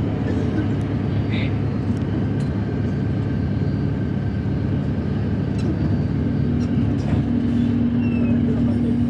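Steady low drone of a vehicle's engine, with an added steady hum coming in about six seconds in.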